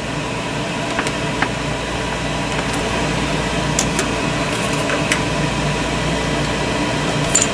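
A steady machine drone, like a fan or blower running, with a few scattered light clicks.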